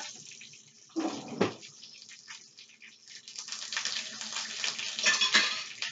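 Fish cakes frying in oil in a skillet, a steady crackling sizzle that gets louder toward the end. A short handling noise about a second in.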